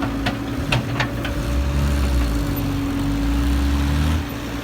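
Kobelco SK120-5 excavator's diesel engine and hydraulics working under load, with a steady whine and a few sharp metallic clanks in the first second or so. The low engine note swells from about a second and a half in and drops back shortly before the end, as the machine struggles with the load.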